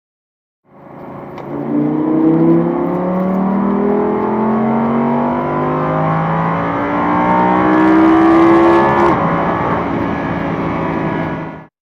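Audi S8 plus's twin-turbo 4.0-litre V8 under full acceleration at high speed, its pitch climbing slowly. It drops sharply at a gear change about nine seconds in, then climbs again.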